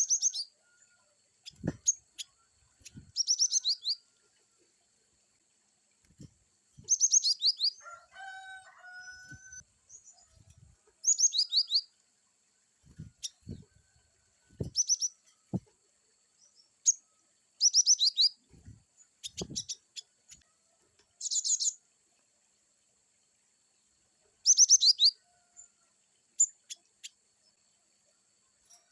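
Cinereous tit (glatik batu) singing short bursts of rapid, high chirping notes, one burst every two to four seconds. Soft low thumps fall between the bursts, and a lower warbling call comes in briefly about eight seconds in.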